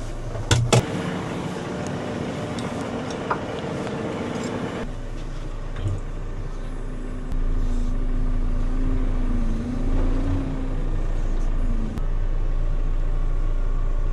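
JCB 3CX Pro backhoe loader's diesel engine running, with two sharp clicks about half a second in. About seven seconds in the engine note gets louder and holds a wavering hum.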